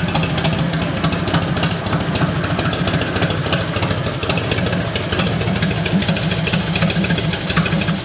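Harley-Davidson Road King's Twin Cam 88 V-twin engine running steadily with a dense, even pulse, then cut off suddenly near the end.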